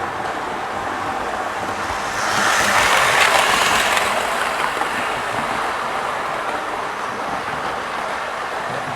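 OO gauge model train running on the layout's track, a steady mechanical noise that swells louder for about two seconds a couple of seconds in.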